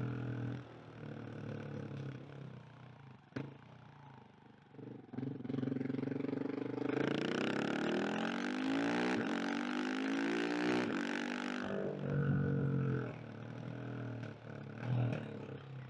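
Single-cylinder engine of a KTM 690 SMC R supermoto being ridden: running softly off the throttle at first, then opened up about six seconds in, loud and climbing in pitch, before easing back off about twelve seconds in.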